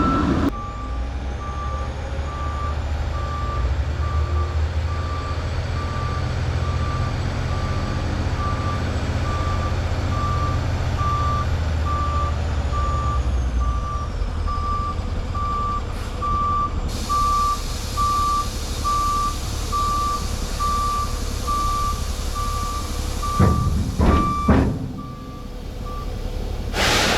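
Backup alarm on a piece of heavy equipment beeping evenly and steadily over a diesel engine's low rumble. Near the end there are a few sharp clanks.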